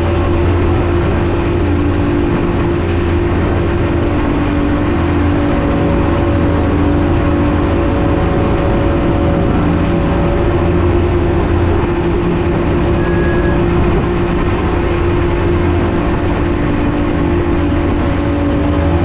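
Glass-bottom boat's engines running steadily, a constant low drone with a hum.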